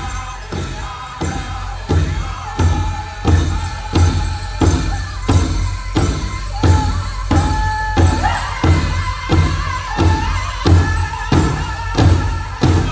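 Powwow drum group: a big drum struck in a steady beat, about one and a half strikes a second, under high held singing that grows stronger about two thirds of the way in.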